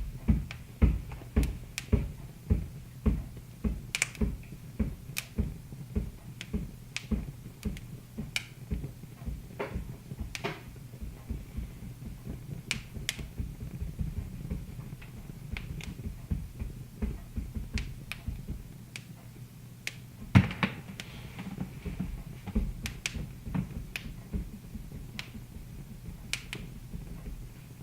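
Wood fire in a fireplace crackling, with irregular sharp pops, the loudest about twenty seconds in, over a low steady hum.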